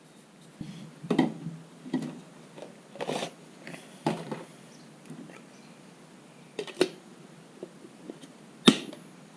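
Irregular clicks, taps and knocks of an oil filter cartridge and its plastic housing cap being handled and fitted together, about half a dozen sharper knocks with the loudest one near the end.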